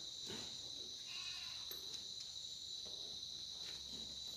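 Steady cricket chirring, with a short goat bleat about a second in and a few light knocks and rustles from handling backpack straps and buckles.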